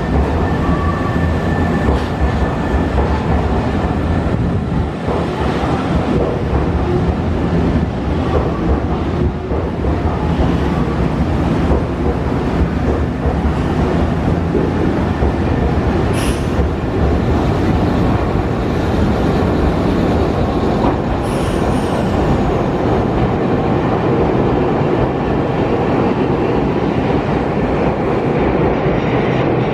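Nankai electric commuter train moving at low speed through the station platform, with steady running noise and a low motor hum, and two brief high-pitched squeals about 16 and 21 seconds in.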